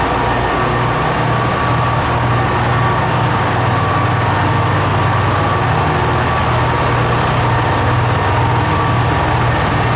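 Diesel railcar's engine running steadily, a low, even hum with a faint higher whine above it.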